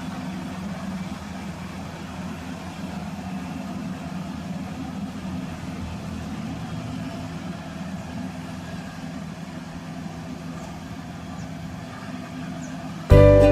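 Maxxi Bimo rice combine harvester running with a steady engine drone. Music cuts back in just before the end.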